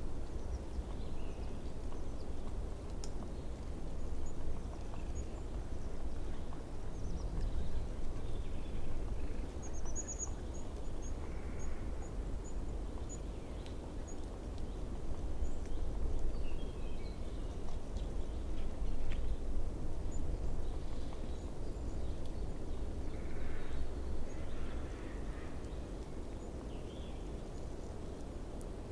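Outdoor ambience: a steady low rumble with faint distant birdsong over it. A quick run of about eight high, thin notes comes about ten seconds in, with scattered soft chirps elsewhere.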